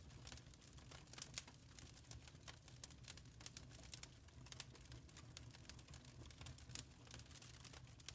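Wood fire crackling in a fireplace: quiet, irregular pops and snaps over a low steady rumble.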